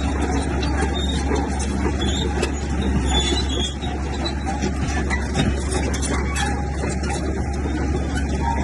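Komatsu bulldozer's diesel engine running steadily with a deep hum, with scattered clicks and knocks.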